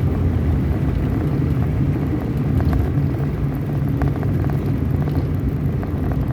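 Vehicle engine and road noise while driving: a steady low drone with a few faint rattles.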